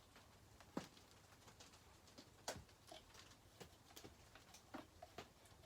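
Faint, occasional light clicks and taps from small chainsaw parts and hand tools being handled during reassembly.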